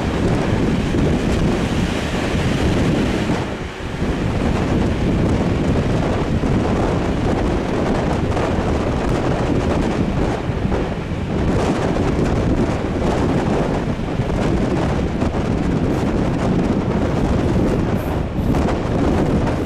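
Wind buffeting a microphone held out of the window of a moving train, over the steady running noise of the train on the track, briefly dipping about four seconds in.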